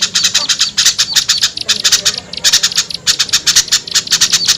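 A noisy chorus of small birds chattering: a dense run of short, sharp chips, several a second, with a brief lull about two seconds in. It is a bird-lure (pikat) recording of rowdy small-bird calls, used to draw wary small birds down.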